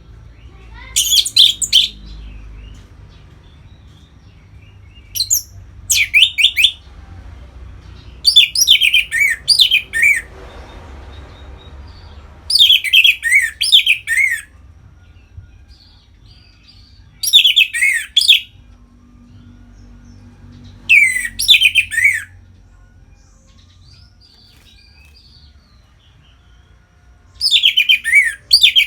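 Orange-headed thrush singing its loud open 'ngeplong' song: seven short phrases, each a quick run of falling whistled notes, separated by pauses of a few seconds.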